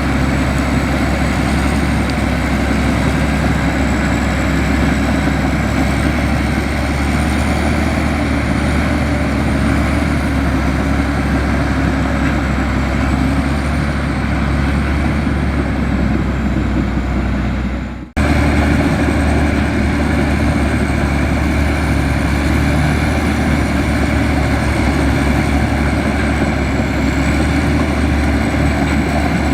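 Komatsu bulldozer's diesel engine running steadily under work, with a thin high whine wavering above the rumble. The sound cuts out abruptly for a moment about two-thirds of the way through, then resumes unchanged.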